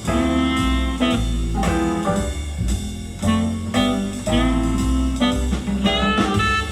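Recorded jazz with saxophone and a walking bass line, played back on a hi-fi loudspeaker system.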